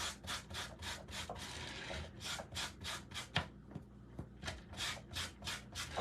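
Muslin cloth being roughed up with quick back-and-forth rubbing strokes, a dry scratchy scrubbing about three to four strokes a second, with a short break a little past the middle.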